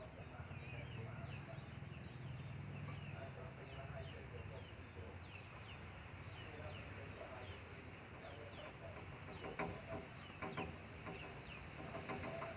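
Zebra dove cooing softly in short repeated notes, with many quick high falling chirps of small birds throughout over a steady low background hum.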